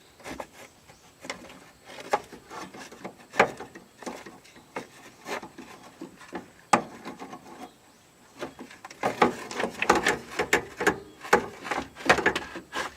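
Hard parts knocking, clicking and scraping against each other as the air-conditioning fan and its motor are twisted and worked into place. There are scattered sharp knocks, then a busier run of rubbing and clicking over the last few seconds.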